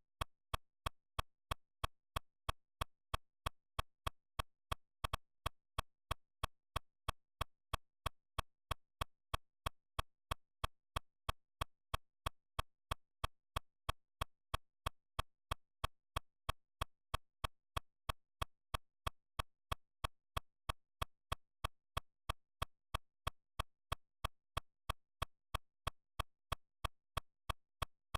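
Steady, evenly spaced ticking clicks, about three a second, with silence between them.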